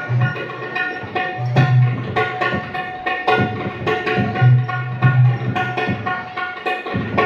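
Dholki hand drum played solo in quick, dense strokes, its bass head giving repeated booming low notes, over a sustained melodic accompaniment.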